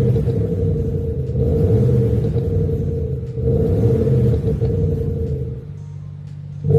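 BMW 520d with an Xhaust active sound system, its exhaust speakers playing a synthetic V8-style exhaust note as the engine is revved in repeated blips. It settles to a steadier, quieter idle near the end before rising again.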